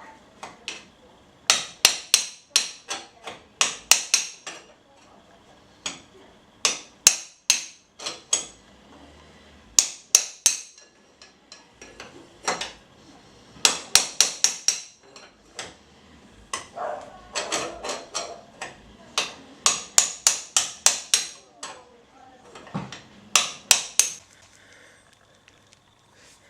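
Hammer blows on metal, coming in quick runs of several strikes with short pauses between, each strike ringing briefly: typical of driving a motorcycle steering head bearing race.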